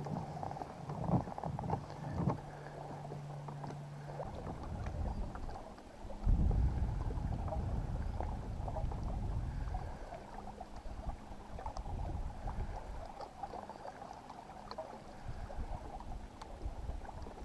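Hobie Pro Angler kayak on the water: water lapping and sloshing against the hull, with a low rumble that gets suddenly louder about six seconds in and eases off after about ten seconds.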